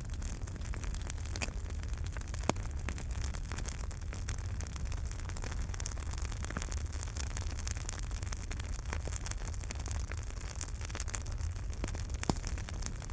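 Wood fire burning in a fireplace: a steady low rumble and hiss with irregular crackles and sharp pops, one louder pop about two and a half seconds in and another near the end.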